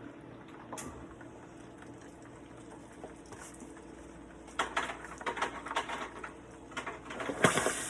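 Chicken wings deep-frying in hot grease: a low sizzle that breaks into a run of sharp crackles and pops about halfway through, with a louder spattering burst near the end.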